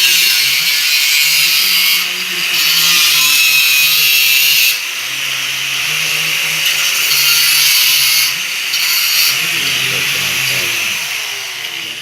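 A power tool working on a van's body metal. It gives a loud, high hiss-like sound in spells with short breaks, and fades near the end.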